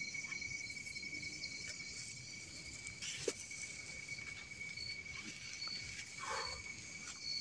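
Insects chirping in a steady chorus: a continuous high-pitched trill with a faster pulsing shrill above it. A few faint clicks and a brief soft rustle come near the end.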